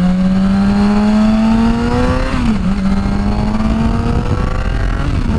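2006 Suzuki GSX-R 750's inline-four engine pulling up through the revs under acceleration, its pitch rising steadily, with an upshift about two and a half seconds in before the revs climb again.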